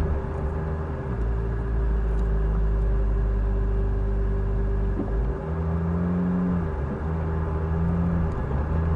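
Off-road 4x4's engine running at low revs as it crawls a rough trail, a steady low rumble with a humming tone; the engine note changes about five seconds in as the throttle shifts.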